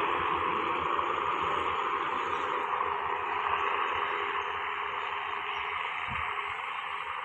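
RHN diesel railcar train running away into the distance: a steady rushing rumble with low thuds early on, slowly fading.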